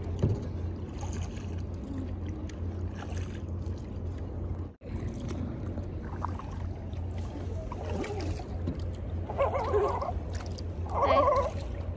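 Kayak out on the water: paddle splashes and light sloshing over a steady low rumble of wind. Two short pitched calls come near the end, about a second and a half apart.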